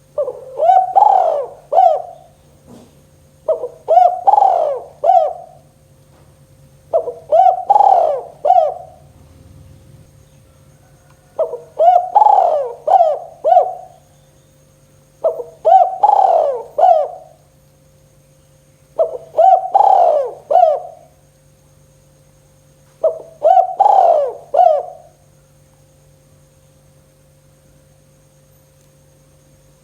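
Spotted dove (tekukur) cooing: seven repeated phrases of three or four coos each, about one every four seconds, stopping about 25 seconds in. A steady low hum runs underneath.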